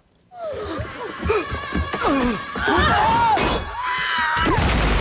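Gliding, wavering voices and film score swell over one another, then a grenade explosion hits about four and a half seconds in, a sudden blast with a deep low end.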